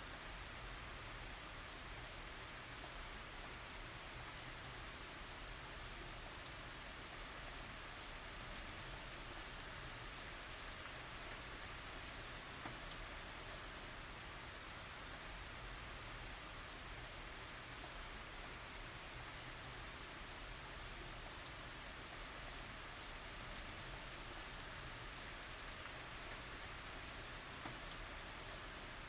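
Steady tropical rain falling on surfaces, an even patter with scattered drop ticks and no thunder.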